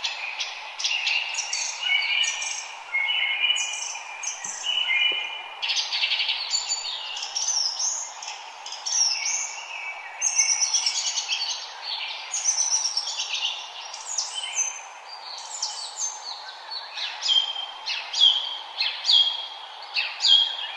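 Several songbirds singing and chirping at once, a dense chorus of quick high chirps and short trills, over a steady faint hiss.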